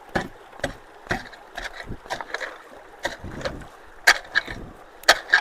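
Irregular splashes and knocks in shallow creek water, about two a second, loudest about four seconds in and again near the end.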